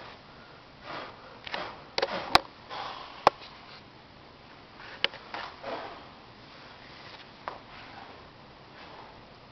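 A person blowing hard on smouldering fireplace embers in a series of short puffs to rekindle the fire, with two sharp clicks about two and three seconds in.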